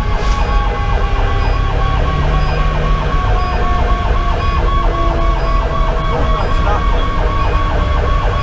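Fire engine's electronic siren cycling rapidly, about four to five chirps a second, with a lower siren tone sliding slowly down in pitch, over the steady low rumble of the truck's Detroit Series 60 diesel.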